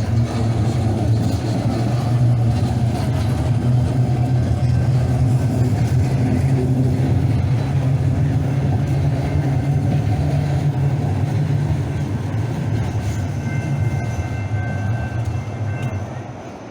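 Train running, a steady low rumble of a rail vehicle in motion that fades away near the end.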